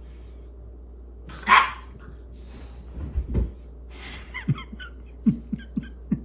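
A dog barks once, loudly, about a second and a half in, followed by a couple of low thumps and then a series of short knocks.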